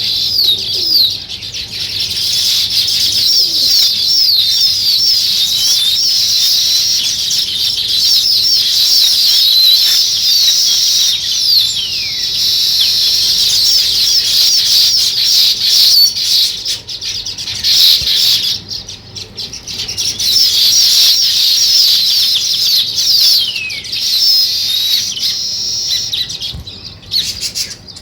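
A flock of small songbirds chirping: many rapid, overlapping high chirps and short down-sweeping notes in continuous chatter, with a couple of brief lulls.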